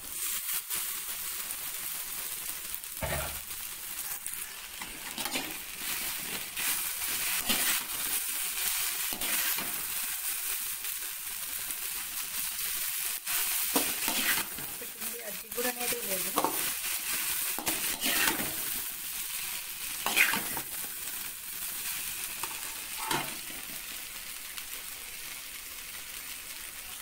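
Chopped okra sizzling in hot oil with fried onions in a metal pan, stirred with a perforated metal ladle that scrapes and knocks against the pan every few seconds.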